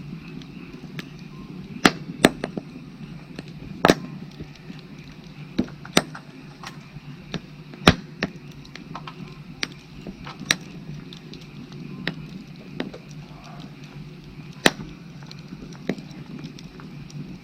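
Firewood burning in an open fire, crackling with irregular sharp pops, a loud one every couple of seconds and many smaller ones between. Underneath runs a steady background chorus of frogs.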